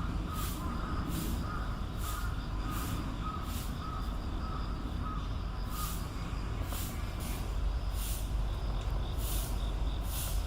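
Asian small-clawed otters calling: a run of short repeated chirps, about two or three a second, that stops about halfway through, with brief high squeaks scattered throughout, over a steady low rumble.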